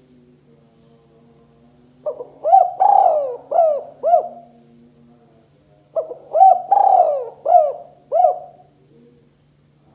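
Spotted dove (tekukur) cooing: two phrases of several short coo notes each, about four seconds apart. A faint steady hum runs underneath.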